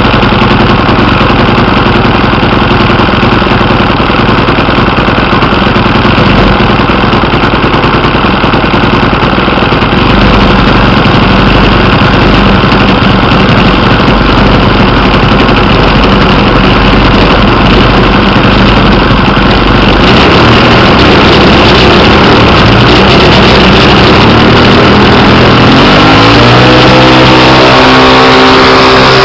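1/5-scale RC Piper Cub's engine and propeller running close by, very loud; about 26 seconds in the engine opens up and its pitch rises and holds higher.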